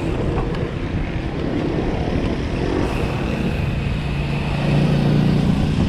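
Motorcycle engine running while riding, over a steady rush of road and wind noise; the engine hum grows louder about four and a half seconds in.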